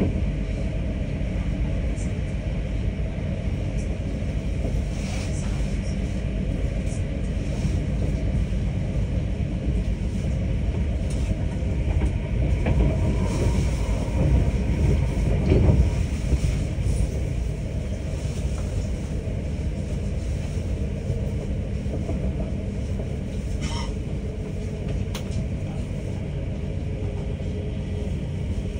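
Passenger train running along the track, heard from inside the carriage: a steady low rumble of wheels and running gear with scattered short clicks, a little louder for a few seconds around the middle.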